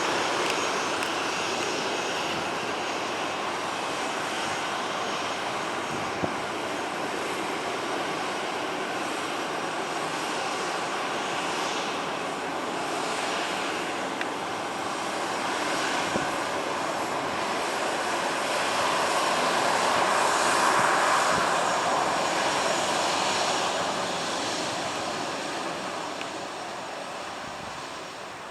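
Airliner's engines as the aircraft passes: a steady rush that swells to its loudest about two-thirds of the way through and then fades away.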